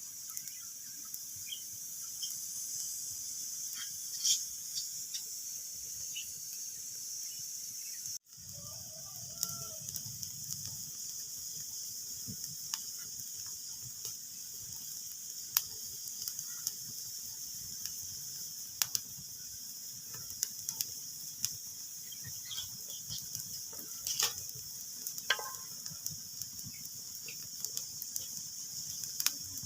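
Wood fire crackling in a fireplace: a steady hiss with irregular sharp pops and snaps, and a few brief squeals from the burning wood. The sound cuts out for an instant about eight seconds in.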